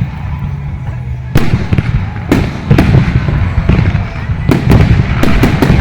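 Aerial fireworks bursting overhead: separate loud bangs at first, then a rapid string of bangs and crackles near the end, over a steady low rumble.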